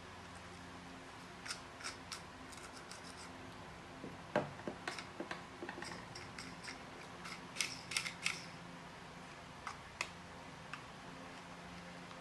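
Irregular short, sharp clicks and snips, in small clusters, over a faint steady hum; the loudest come about four seconds in and a cluster around eight seconds.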